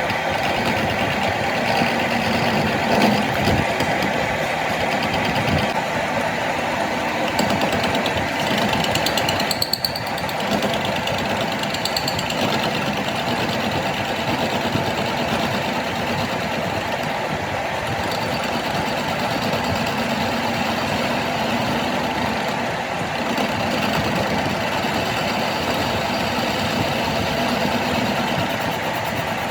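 A large engine running steadily, with a few sharp metallic knocks about three seconds in and again around ten seconds in.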